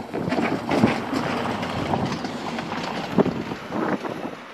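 Distant train approaching, its rumble and wheel noise rising and falling in irregular surges, mixed with wind gusting on the microphone.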